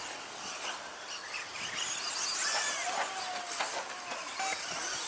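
Radio-controlled stadium trucks racing: thin motor whines glide up and down in pitch as the trucks accelerate and brake, over a steady high hiss, with a few short clicks.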